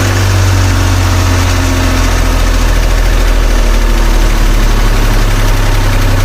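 Tractor engine running steadily at idle, a loud, deep, even drone.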